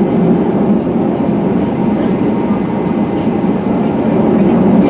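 Steady cabin rumble inside an Airbus A320-211, from its CFM56 turbofan engines and the airflow around the fuselage.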